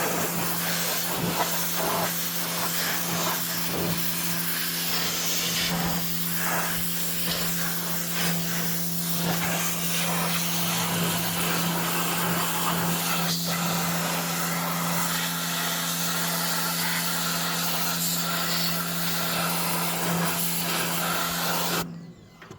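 Pressure washer running and spraying: a steady pump hum under the hiss of the water jet, cutting off suddenly near the end.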